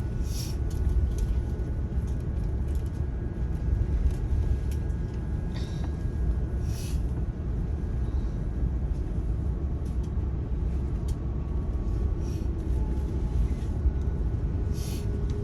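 Steady low rumble inside an airliner cabin as the plane taxis before takeoff, with a few short, high-pitched rustles.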